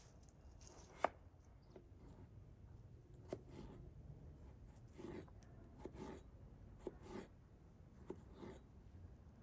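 Quiet hand food preparation: scattered light taps, clicks and short scrapes, with one sharper knock about a second in.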